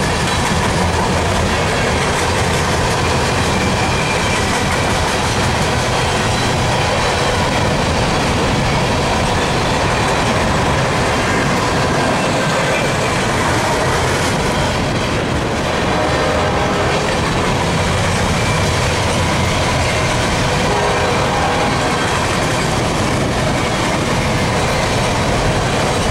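Empty steel coal gondolas of a unit freight train rolling past close by: a steady rumble and clatter of steel wheels on rail.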